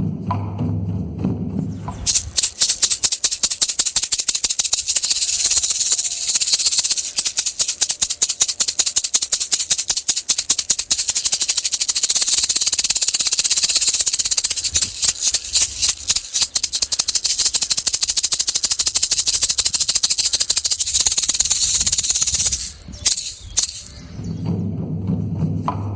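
Buffalo rattle shaken fast and continuously, a dense bright rattling that starts about two seconds in and stops near the end after a few last shakes. A low, deep pitched sound is heard before the rattling starts and again after it stops.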